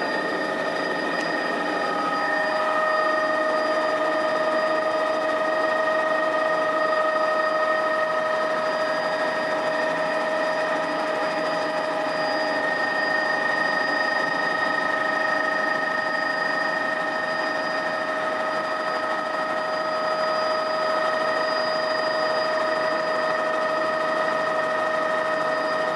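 Helicopter running steadily: an even mechanical drone with several constant high whining tones over it.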